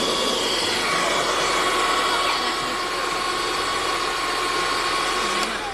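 Small handheld car vacuum cleaner running, its motor giving a steady high whine over a rushing hiss while it sucks up grains of rice. It is switched off with a click near the end and the sound drops away.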